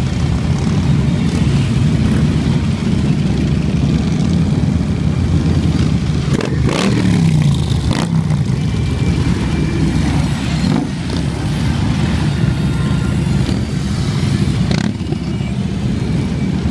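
Many motorcycle engines rumbling steadily as a large group rides past, with one machine passing close about seven seconds in, its pitch dropping as it goes by.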